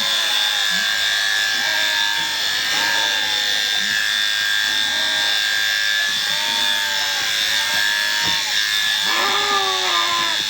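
Electric sheep-shearing handpiece running continuously with a steady high whine.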